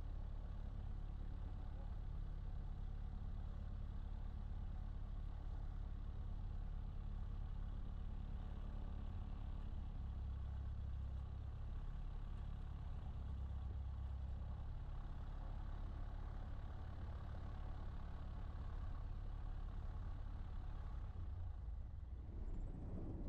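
Cessna 152's four-cylinder Lycoming engine idling steadily on the ground, its note changing near the very end as shutdown begins.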